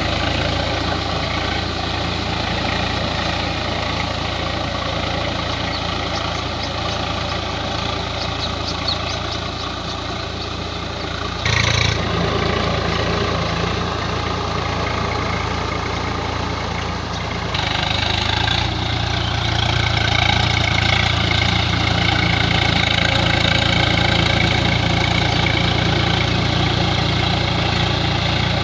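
Swaraj 744 FE tractor's diesel engine running steadily while driving a rotary tiller through a puddled field. A brief louder burst comes just before the middle, and the sound grows louder and fuller past the middle.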